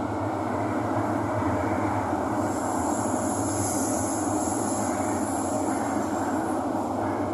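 Thomson–East Coast Line MRT train running between stations, heard from inside the carriage: a steady rumble of wheels and motors, with a high whine that swells in the middle and fades again.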